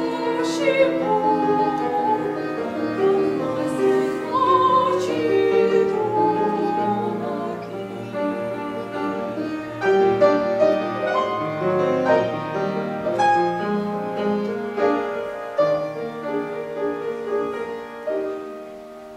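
Young female classical singer with grand piano accompaniment: the voice sings with vibrato for about the first five seconds, then the piano plays on alone and dies away near the end, closing the song.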